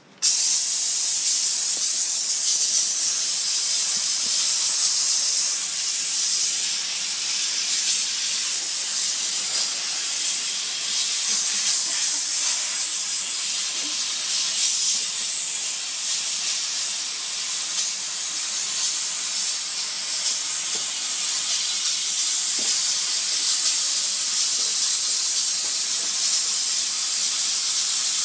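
Enrich Fogger bed bug sprayer machine spraying with a loud, steady, high hiss that switches on suddenly at the start.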